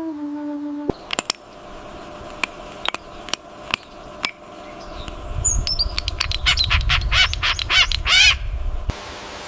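Bird calls: scattered sharp clicks and short chirps, then a harsh, raspy call repeated fast into a chatter, over a low rumble. It opens with the tail of a low, whistled, flute-like tone that cuts off abruptly within the first second.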